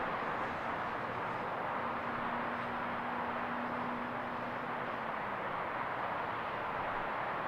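Electric-powered RC P-47D warbird in flight: a steady rushing whir from its propeller, with a faint hum that drops a little in pitch about five seconds in.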